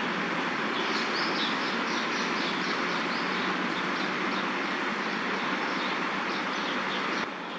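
Steady hum of city traffic, with a small bird chirping repeatedly in short high notes, about three a second. The sound shifts abruptly near the end.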